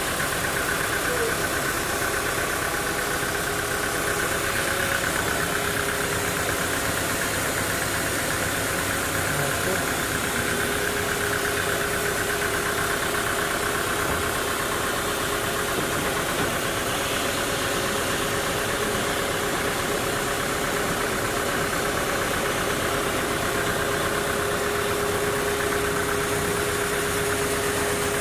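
Sawmill machinery running steadily, a constant engine hum with a steady whine that does not change.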